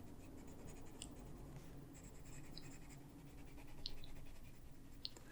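Faint scratching of a wax-based colored pencil stroked over paper, layering color, with a few light ticks.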